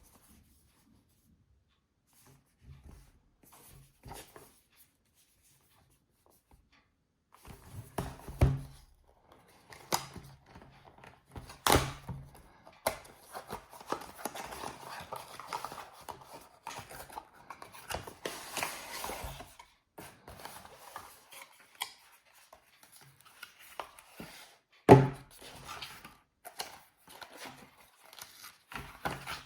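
Handling noises: scattered clicks, knocks and rustling, with a sharp knock about 25 s in.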